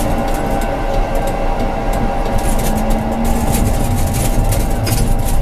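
Tram running on its rails: a steady rumble of traction motors and wheels, with a brief low whine about halfway through and scattered clicks.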